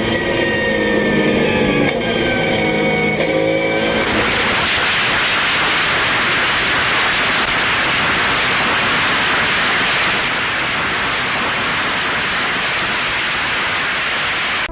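A car engine revving, its pitch shifting. About four seconds in, a loud steady rushing roar of the vehicle moving takes over and runs until it cuts off.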